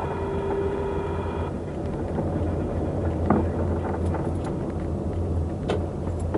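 Steady running noise of a moving road vehicle: a low engine and road hum with a noisy wash over it. A held multi-note tone stops about a second and a half in, and two short sharp clicks are heard later.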